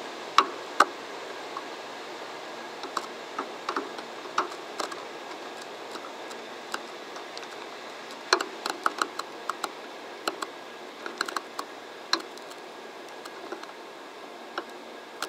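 A 923-series Doctor Yellow Shinkansen set moving slowly through the depot tracks: a steady hiss that fades gradually, with irregular sharp clicks and ticks. The two loudest clicks come about half a second in, and a dense run of them follows from about eight to twelve seconds.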